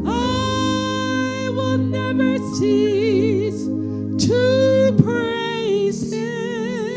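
Gospel music: a singer holds long notes with wide vibrato, sliding up into each one, over sustained accompaniment chords.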